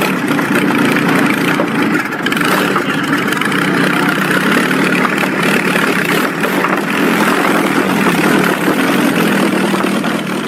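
A 24-litre Napier Lion W12 aero engine in a Campbell Bluebird replica, running loud and steady at a fast idle with no clear revs.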